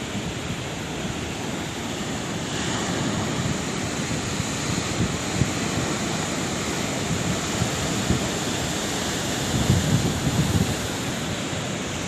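Sea waves washing onto the shore, a continuous rush of surf with a louder wave breaking near the end, and wind buffeting the microphone.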